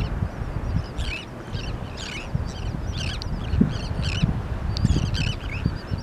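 A flock of feeding seabirds, gulls and terns, calling over and over with short harsh cries, several overlapping, over a low uneven rumble.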